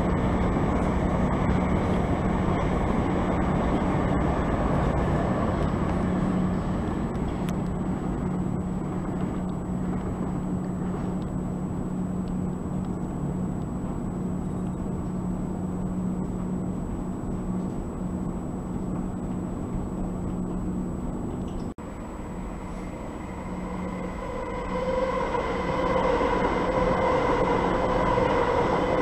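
Southeastern electric multiple-unit train running through the station with a steady rumble and low hum. About three seconds before the end, a pitched whine comes in and grows louder as another electric train moves in.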